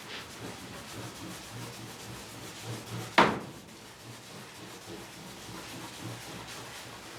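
Rubbing and scraping on wood, with one sharp knock about three seconds in.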